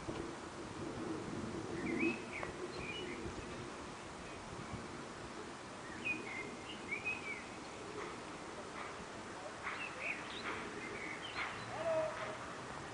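A songbird chirping: short, bending phrases repeated every few seconds over faint outdoor background noise.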